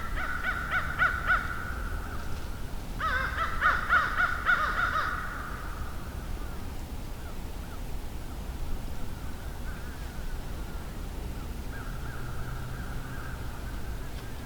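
Birds calling outdoors: two bursts of rapid, repeated harsh calls in the first five seconds, then fainter calls later.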